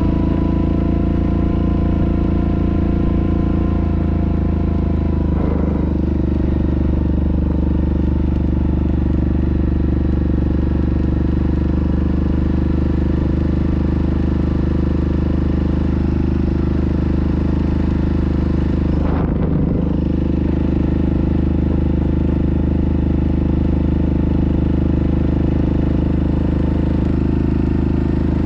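Yamaha Grizzly ATV engine running at a steady, even pace, with a brief change in its sound about 5 seconds in and again near 19 seconds.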